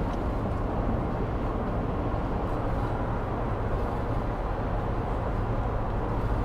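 Steady road and engine noise inside a Sprinter campervan's cab cruising on the motorway: an even rumble, strongest at the low end, that does not change.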